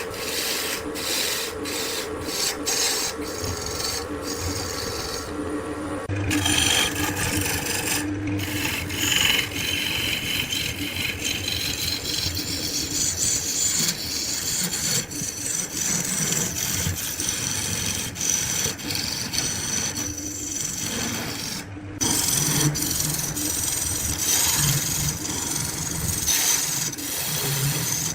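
Wood being turned on a lathe: a steady rasping of a tool or abrasive against the spinning wood, with abrupt breaks about six, eight and twenty-two seconds in.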